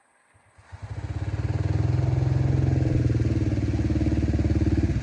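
An engine starts about half a second in, its firing pulses quickly building up, then runs steadily with an even, rapid beat.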